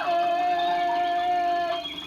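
A cartoon animal singer on a TV talent show holds one long, squawky, hen-like high note, pitched a little lower after a short slide at the start, that breaks off near the end.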